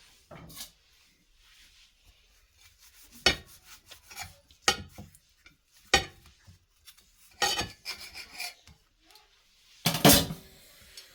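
Knife cutting through a freshly cooked potato-stuffed roti: a series of irregular scraping strokes and sharp knocks against the surface beneath, with the loudest stroke near the end.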